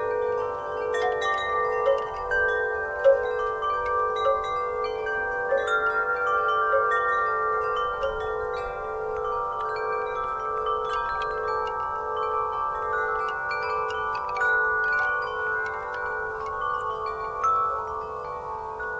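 Wind chimes stirred by a breeze, struck at irregular moments, their many overlapping tones ringing on and blending into a steady shimmer.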